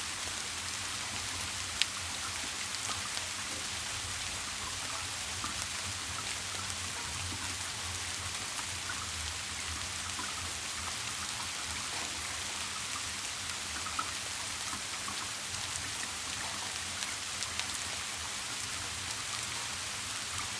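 Steady rain, a dense hiss with individual drops ticking through it and a low rumble underneath. One sharp, louder drop strikes about two seconds in.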